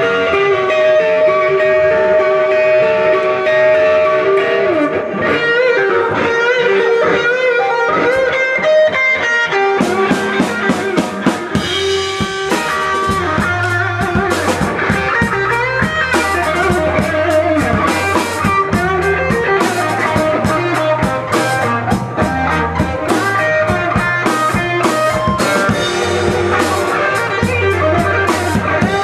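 Instrumental intro of a blues song: electric guitar playing alone at first, then drums and bass come in about ten seconds in and the band plays on together.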